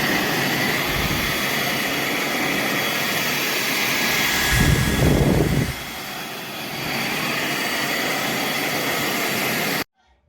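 Roborock H60 Ultra cordless stick vacuum running with a steady whine. About halfway it gets louder with a low rumble for just over a second, then settles, and it cuts off suddenly near the end.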